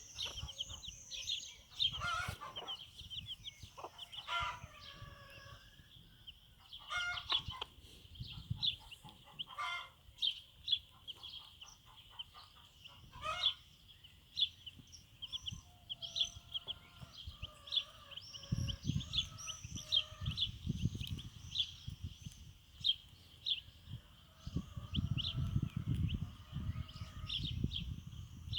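Bantam chicks peeping in a steady stream of short high cheeps, with their mother hen clucking lower now and then. A low rumble comes and goes in the background.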